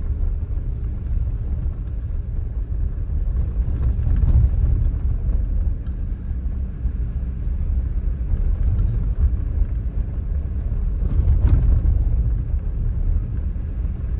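Car driving slowly: a steady low rumble of engine and tyres, heard from inside the cabin. It swells briefly about four seconds in and again near the end.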